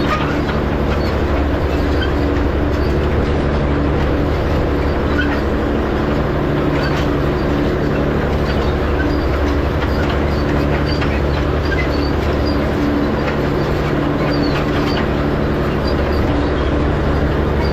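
Tractor engine running steadily under load while pulling an Oliver 107 hay rake over the windrows, with light clicking and rattling from the working rake.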